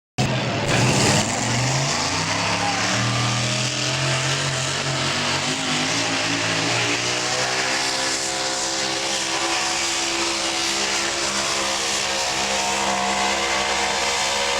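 Super modified four-wheel-drive pulling truck's engine running hard at high revs through a pull, a loud, steady note that starts suddenly.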